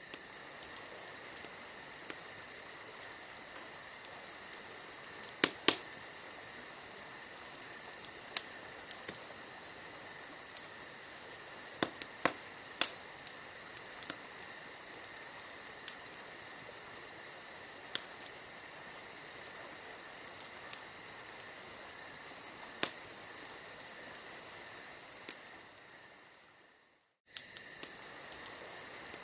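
Campfire wood crackling and popping in sharp, irregular snaps over a steady, high-pitched chirring chorus of crickets. Near the end the whole sound fades out briefly and comes straight back.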